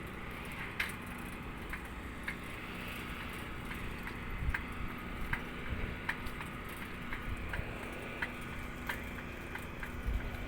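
Steady outdoor background hum with a low steady tone, overlaid by light, sharp clicks that come irregularly about once or twice a second.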